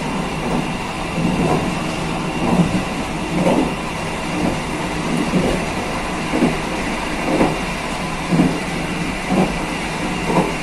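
KA Kaligung passenger train running along the track: a steady rumble from wheels on rail, with a clack about once a second as the wheels pass over rail joints.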